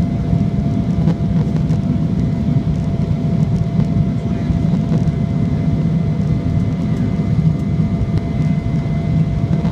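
Steady engine and airflow drone inside the cabin of a passenger airliner climbing or cruising after takeoff: a deep rumble with a thin steady whine above it.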